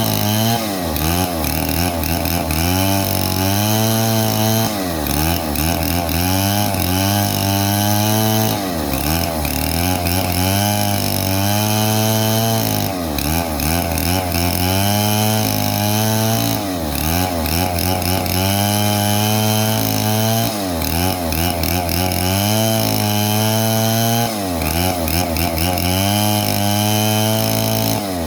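Stihl 070 two-stroke chainsaw cutting wood at high revs, its engine pitch dipping under load and climbing back every few seconds as the chain bites and frees.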